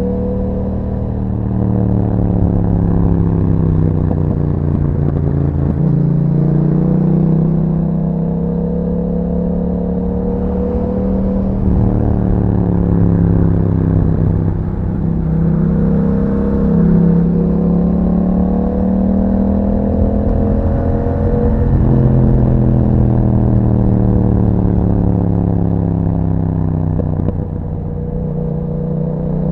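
Yamaha MT-07's 689 cc crossplane parallel-twin engine running through an Akrapovic exhaust while riding. The engine note rises under acceleration and drops back several times as the rider shifts gears and eases off.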